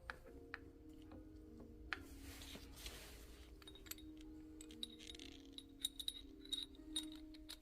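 Scattered light metallic clinks and taps, several in quick succession near the end, over soft background music.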